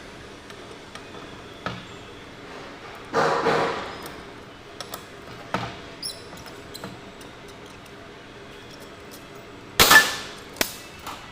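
Tools and small metal carburetor parts handled on a workbench: scattered clicks and clinks, a rattling scrape about three seconds in, and a sharp, ringing metal knock near the end, followed by a second, smaller one.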